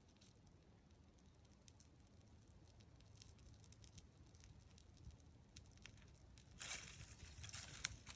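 Faint scattered crackles, then about seven seconds in a louder spell of crackling and hissing with sharp clicks: tinder and kindling catching as a campfire is lit.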